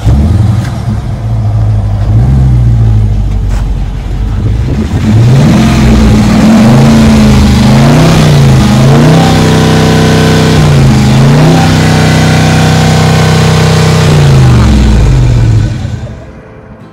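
Dodge Charger's engine revving loudly, its pitch climbing and falling several times, then dying away near the end.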